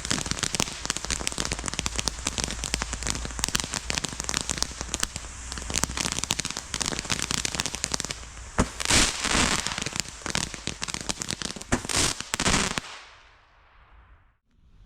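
Consumer firework going off with a dense, rapid crackle of many small pops, louder about nine seconds in and again near twelve seconds, then dying away about thirteen seconds in.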